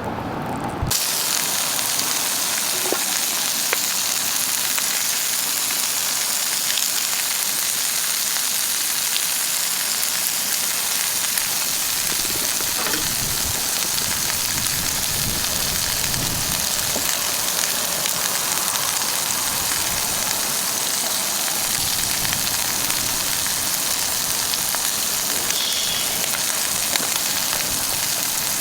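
Food frying in a pan, a steady sizzling hiss with small crackles; it cuts in abruptly about a second in.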